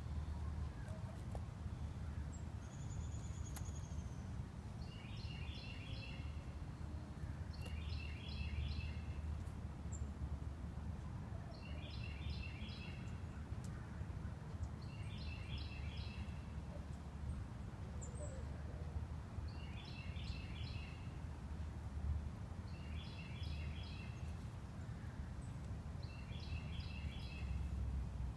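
A songbird singing the same short phrase of quickly repeated notes seven times, one phrase every three to four seconds, over a steady low rumble.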